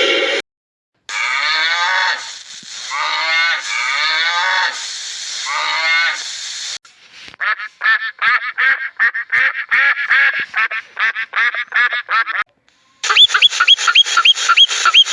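A run of animal calls in separate clips: long calls that bend up and down in pitch, then a fast run of short calls, then quick repeated chirps near the end.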